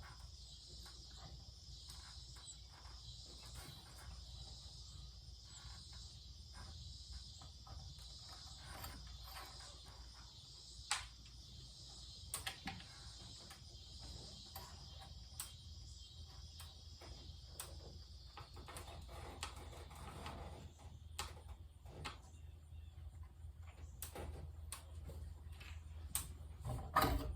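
Faint, scattered clicks and knocks of parts being handled while a ceiling fan is taken apart, over a steady low hum and hiss.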